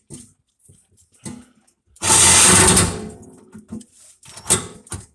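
A handheld power tool run in a loud burst of about a second, then trailing off, with scattered metal knocks and clanks around it, while working on a car's exhaust.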